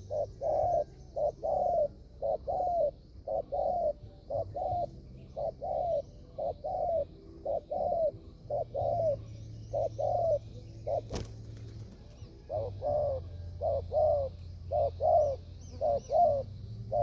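Spotted dove cooing in a long, rapid run of paired notes, a short coo then a longer falling coo, about one pair a second, with a brief pause near the middle. A single sharp click about eleven seconds in; faint high bird chirps behind.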